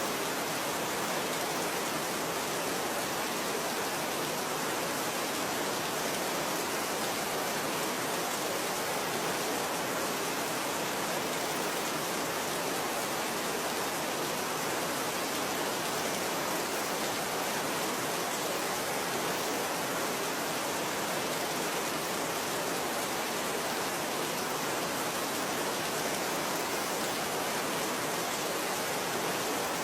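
Steady heavy rain: an even, unbroken hiss with no separate drops or thunder standing out.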